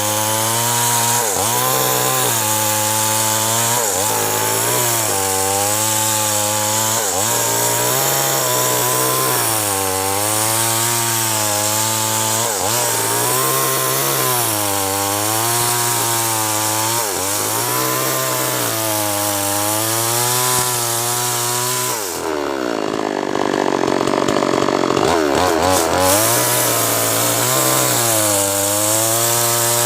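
Two-stroke chainsaw cutting acacia wood, its engine pitch sagging and recovering every couple of seconds as it loads up in the cut. About three-quarters of the way through, the engine note drops low for a few seconds, then picks up again.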